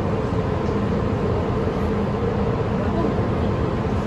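MTR M-train electric multiple unit running along the track, heard from inside the car: a steady rumble with a faint, even hum.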